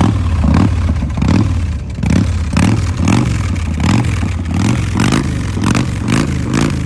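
Big Dog chopper's 1916 cc S&S V-twin engine running, with a regular pulse about twice a second over a steady low drone.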